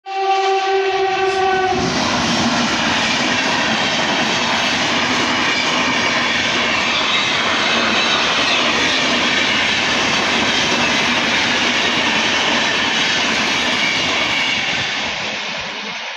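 Train horn sounding for about two seconds, then a high-speed train rushing past at around 140–150 km/h. The loud, steady rush of wheels and wind eases off slightly near the end.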